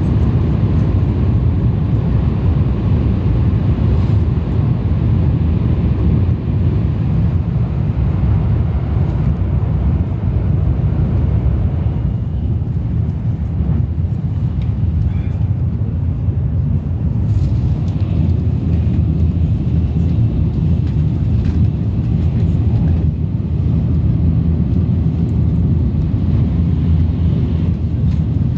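Sanyo Shinkansen train running at speed, heard from inside the passenger cabin: a loud, steady low rumble of running noise. The higher hiss above it thins out about twelve seconds in.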